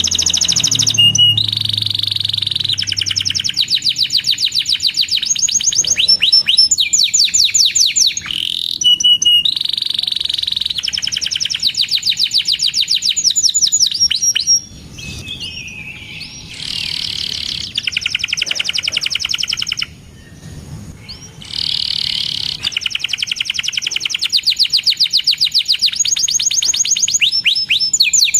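Canary singing a long, loud song of fast trills: rolls of rapidly repeated high notes, with two brief quieter pauses about halfway through.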